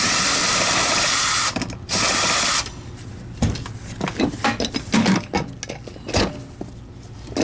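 Power driver backing out screws in two runs, about a second and a half and then half a second long, followed by scattered clicks and knocks of metal and plastic parts being handled.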